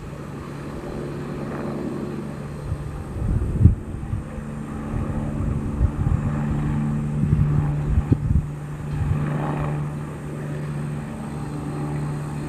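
Aircraft engine running with a steady low hum, with irregular gusts of wind buffeting the microphone.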